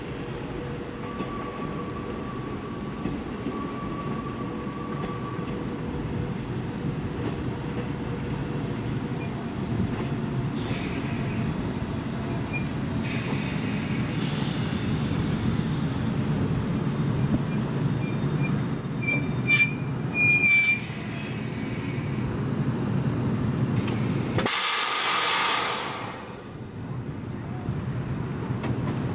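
JR East 185 series electric train running slowly into a station with a steady rumble. High squeals from the wheels and brakes come and go around the middle, and there are two bursts of hiss, the second and louder one near the end.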